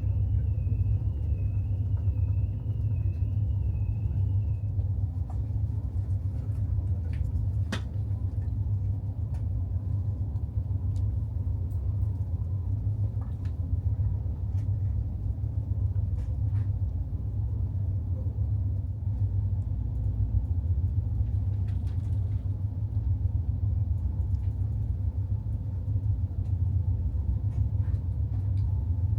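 Steady low rumble of a high-speed catamaran car ferry's engines under way. A faint warbling tone sounds over it for the first few seconds, with a few faint clicks later.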